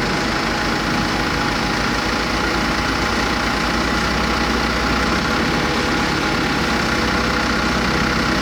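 Steady industrial machinery drone from an aluminium rod continuous casting and rolling line: an unbroken hum with several constant tones and no distinct impacts.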